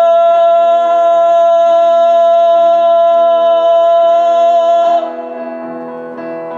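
A male singer holds one long high note over piano accompaniment. About five seconds in the note ends and the piano carries on alone, more quietly.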